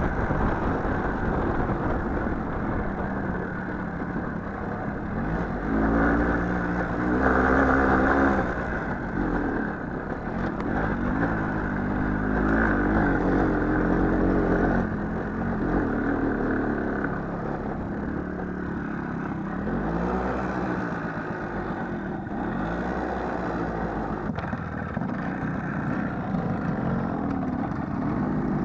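Small motorcycle engine running under way, revving up and easing off again and again as the bike rides along.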